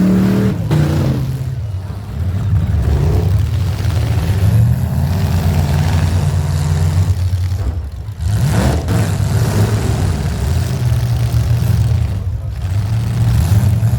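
Demolition derby vehicle engines running and revving. A rev falls away in the first second, then a steady low engine drone carries on, with a quick rev up about eight seconds in.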